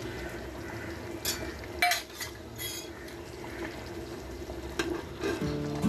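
Metal ladle stirring a thick, cornflour-thickened sauce in a pan on the stove, with a few scrapes and clinks against the pan.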